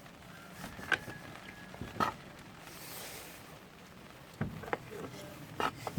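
Hands firming and tidying lettuce seedlings in a plastic cell tray of compost: a handful of light, irregular taps and clicks.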